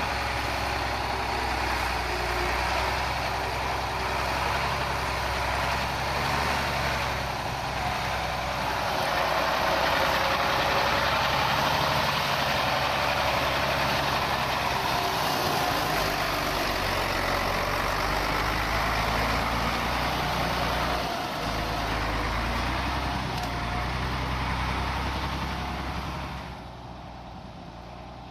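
Scania 4x4 expedition truck's diesel engine running steadily, with a broad rushing noise over it; the sound falls away near the end.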